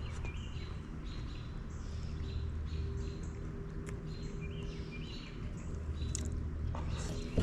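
Small birds chirping, short paired notes near the start and again about halfway through, over a steady low outdoor rumble.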